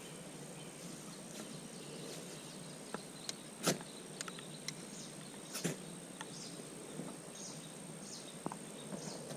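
Forest ambience: a steady hiss with a faint high thin whine, a few sharp clicks and cracks, the loudest about three and a half seconds in, and a string of short high chirps about once a second in the second half.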